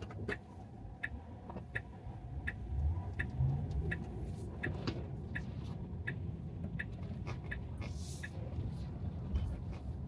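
Steady low road rumble inside a Tesla Model 3's cabin on wet pavement, with a turn-signal indicator ticking evenly, about three ticks every two seconds.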